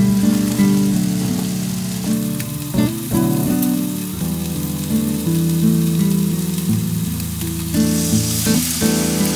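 Chicken and onions sizzling as they fry in a pan, with background music of held notes throughout. About eight seconds in, liquid is poured into the hot pan and the sizzle grows louder.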